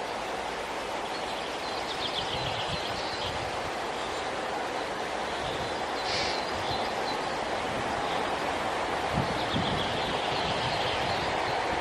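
Blue-breasted kingfisher giving a high trilling call twice, about two seconds in and again near the end, with a short sharp note around six seconds, over a steady rushing background noise.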